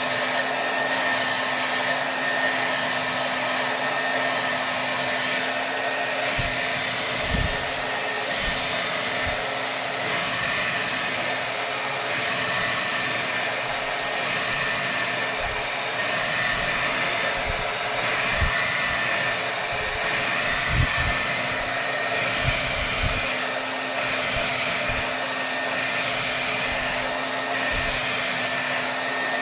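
Hair dryer running steadily on its highest setting: a constant rush of air with a steady motor whine. A few brief low thumps come through now and then, mostly in the second half.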